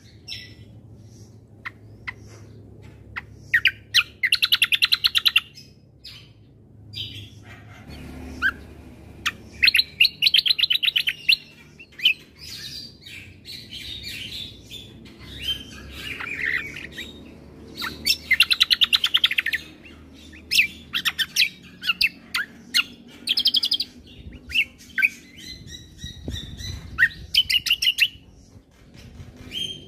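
Kecial kombo (cucak kombo) songbird singing a varied song. Bursts of very fast, high trills alternate with short chirps and whistled phrases.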